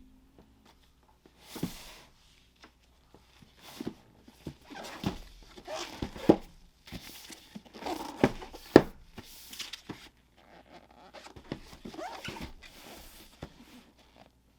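A cardboard sneaker box and its paper being handled and opened: irregular rustling and scraping with several sharp knocks, the loudest about six and nine seconds in.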